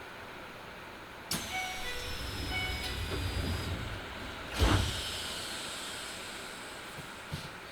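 Keisei 3000-series train's doors closing: a sudden hiss with a falling whistle, short chime tones twice, then a heavy thud as the doors shut about 4.5 seconds in.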